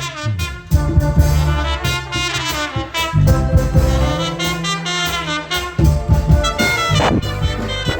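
Live band playing an instrumental passage: sustained bass notes and a melody line over a steady drum beat.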